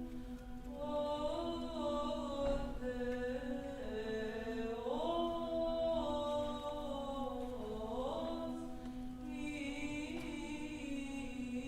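Unaccompanied voices singing old Russian chant: a slow melody gliding between notes above a steady held drone note.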